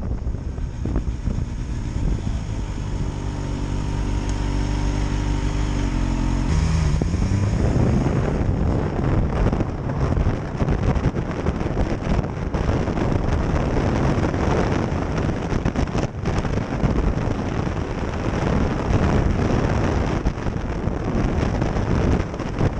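Kawasaki Ninja H2 SX SE's supercharged inline-four engine running at a steady pitch, then revving up about six seconds in as the bike accelerates. After that, wind rushing over the microphone at speed covers it.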